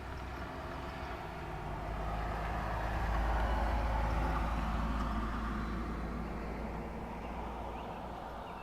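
A vehicle passing by: a steady rushing noise that swells to its loudest about four seconds in, then fades away.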